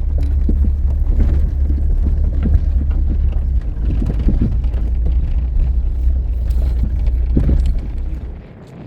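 Wind buffeting the microphone: a loud, low, crackling rumble that dies away near the end.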